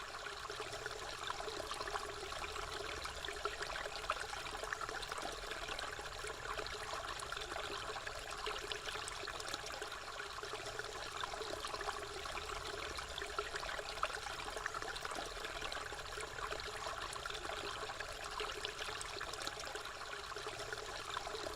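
Stream water flowing steadily: a continuous rush made up of many small splashes, with no pauses.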